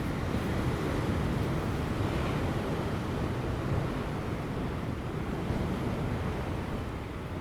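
Ocean surf breaking on offshore rocks, a steady heavy wash of water, with wind buffeting the microphone.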